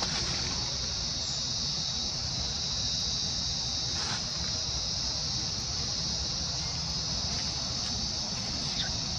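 Steady high-pitched drone of insects, unbroken throughout, over a low rumble.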